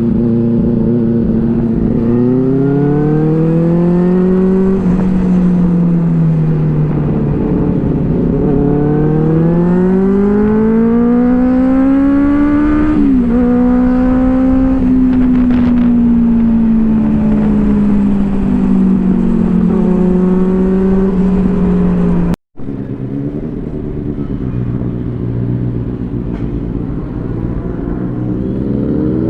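Inline-four superbike engine with an aftermarket exhaust, accelerating and easing off while riding: the pitch climbs and drops again and again as it pulls through the gears. The sound cuts out abruptly for a moment about two-thirds through, then the engine note returns.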